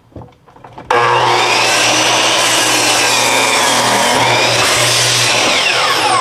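Electric miter saw started about a second in, running at a steady whine as it cuts into a 2x6 at a 45-degree angle, then released near the end with its motor winding down in a falling whine. This saw cannot cut all the way through the 2x6 at this angle.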